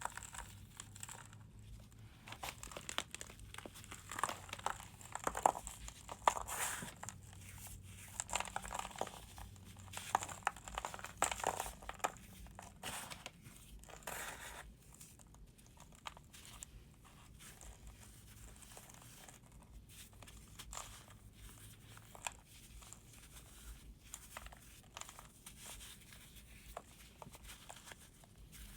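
A brittle material being crunched and crumbled: a dense run of small crackles and snaps, busiest in the first half and thinner later.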